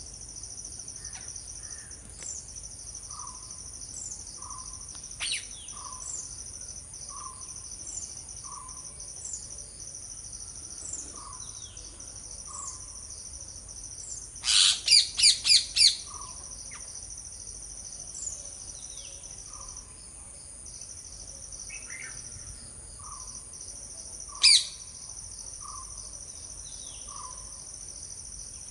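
Parrots calling from a tree, with a quick run of about six loud, harsh screeches midway and single sharp calls about five seconds in and near the end. Underneath is a steady high insect drone, and another bird repeats a soft short note over and over.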